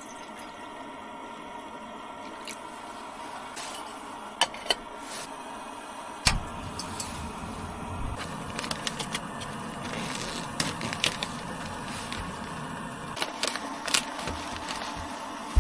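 Scattered sharp clicks and knocks over a steady hum. A loud knock comes about six seconds in, and after it a low rumble continues.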